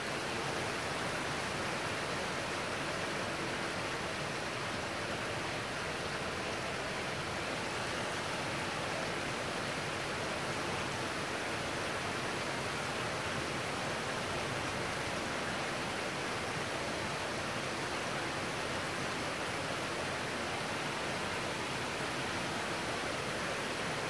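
Heavy downpour during a thunderstorm: torrential rain falling as a steady, even hiss.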